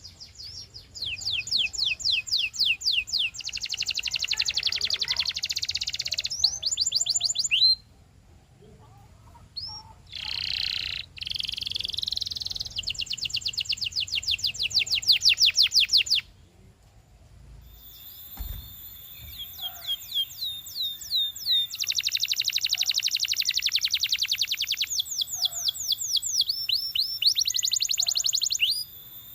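Domestic canary singing: fast trills of rapidly repeated, downward-sweeping high notes, given in phrases of a few seconds with short pauses between them. Faint steady high-pitched tones run under the song through its second half.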